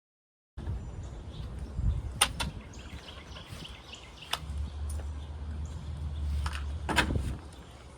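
Outdoor ambience: a low rumble with several sharp knocks or clicks, the loudest about two seconds in and about seven seconds in, and faint bird chirps.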